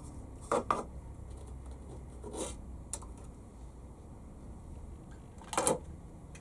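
Small screws and nuts clicking and scraping as they are picked up and handled, about five short sounds with the loudest near the end, over a low steady hum.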